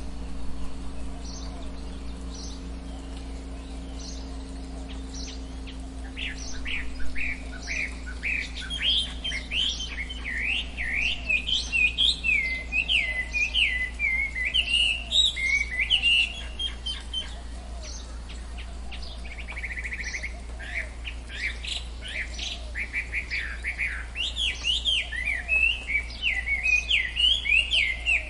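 Tropical forest birds chirping in rapid runs of short, high notes. The chirping grows busy from about six seconds in, over a faint steady low hum that fades out in the first third.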